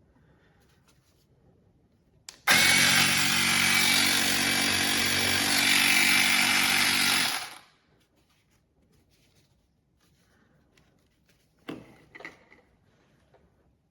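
Portable electric tyre inflator's small piston compressor running: it starts about two and a half seconds in, runs steadily for about five seconds and then stops, followed near the end by a few light clicks of handling.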